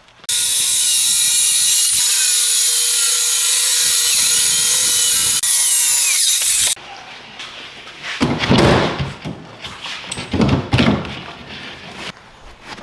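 A power tool runs steadily for about six seconds: a loud hiss with a high whine in it, which starts and stops abruptly. Several irregular scraping, rubbing sounds follow.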